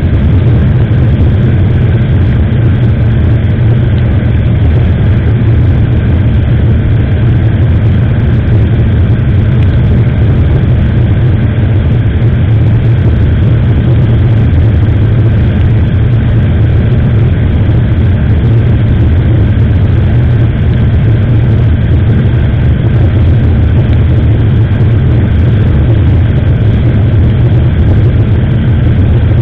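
Steady riding noise from a moving motorcycle as picked up by a small action camera: a loud, even wind rush with the engine running underneath, unchanging throughout.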